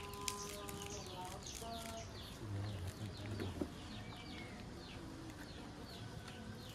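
Small birds chirping over and over, each call a short high note falling in pitch.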